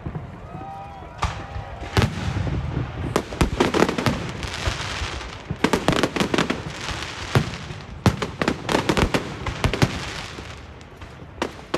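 Fireworks going off in rapid volleys of sharp bangs and crackles, in several bursts with a short lull near the end.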